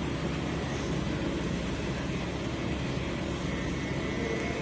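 Steady low mechanical hum with no distinct events, like a motor or fan running.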